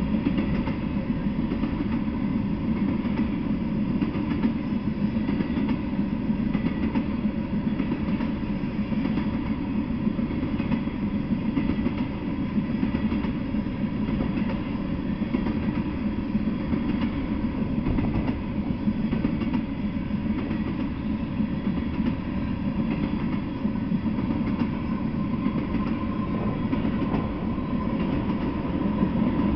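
Freight train of tank cars rolling steadily past, a continuous noise of steel wheels running on the rails.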